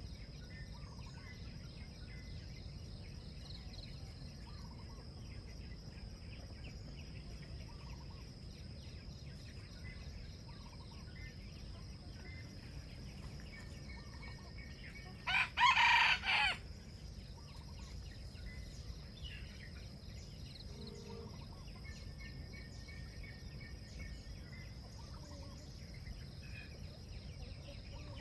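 A junglefowl rooster crows once about halfway through, a short crow broken into a few parts. Faint chirps of small birds and a steady high-pitched tone run underneath.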